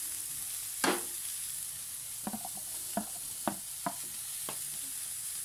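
Yardlong beans and tomatoes sizzling steadily in a stainless frying pan, with a wooden spatula knocking and scraping against the plate and pan about six times, the loudest knock about a second in.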